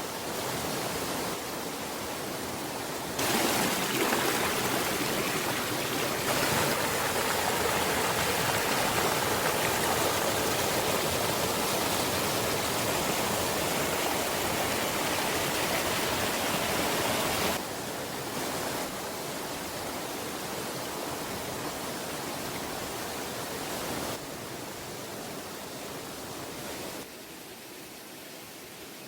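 Steady rush of water from a mountain valley stream swollen by monsoon rain. It is louder from about three seconds in until about seventeen seconds, then drops back in steps and is quieter near the end.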